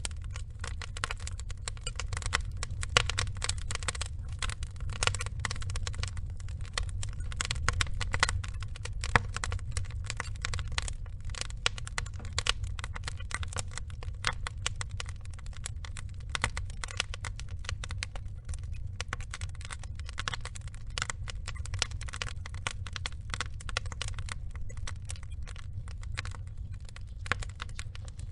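Wood fire of burning logs crackling, with dense, irregular snaps and occasional louder pops over a steady low rumble.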